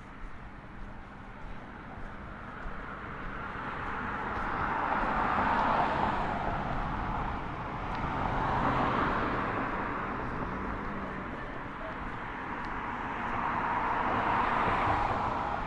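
Road traffic: vehicles passing by one after another, three swells of tyre and engine noise that each rise and fade over a few seconds.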